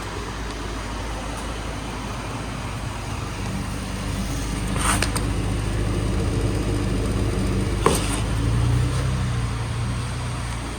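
2009 Dodge Charger's 2.7-litre V6 engine running, brought up to a higher speed about four seconds in and easing back near the end. Two sharp clicks are heard along the way.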